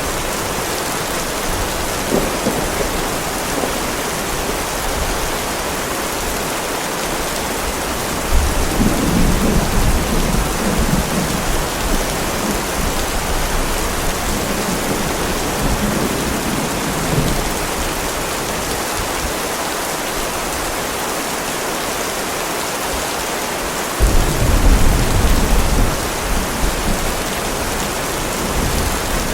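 Heavy rain falling steadily as an even hiss, with deep rumbles of thunder rolling in several times, the strongest about a third of the way in and again past three-quarters through.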